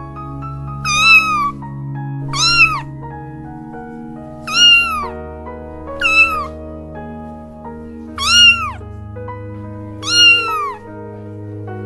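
Domestic cat meowing six times, each meow rising and then falling in pitch, over soft background music with long held notes.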